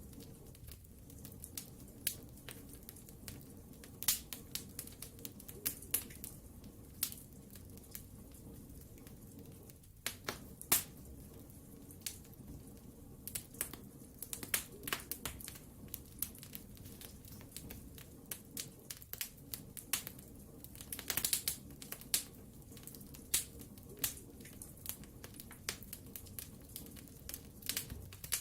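Wood fire burning in a fireplace: a steady low rumble of the flames with sharp, irregular crackles and pops of the burning logs, a quick cluster of them about three quarters of the way through.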